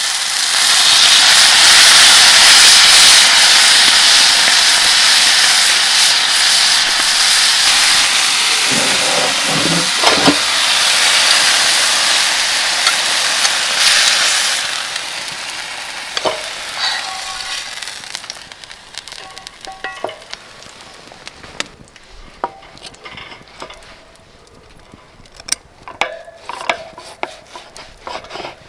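Food sizzling loudly in a hot pan, the sizzle easing off about halfway through and dying away, followed by scattered light clicks and taps.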